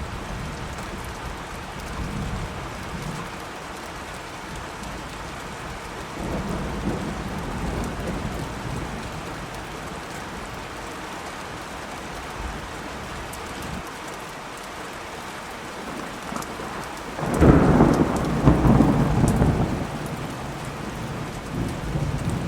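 Steady rain falling, with rolls of thunder; a louder, closer peal of thunder breaks about three-quarters of the way through and rumbles for a few seconds.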